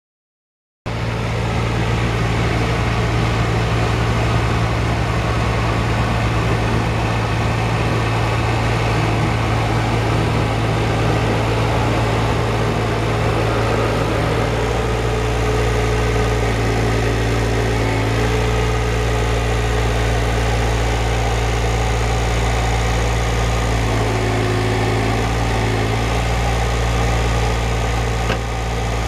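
Tractor engine running steadily at an even speed, cutting in suddenly about a second in.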